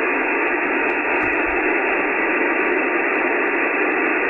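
Icom IC-9700 transceiver on 70 cm SSB receive with no station coming through: a steady, narrow hiss of band noise and static from its speaker.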